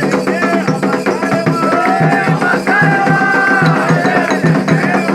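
Candomblé ritual music for Xangô: atabaque hand drums beating a steady rhythm with a clacking wood-block or bell part. Voices sing a chant over it in long, gliding notes.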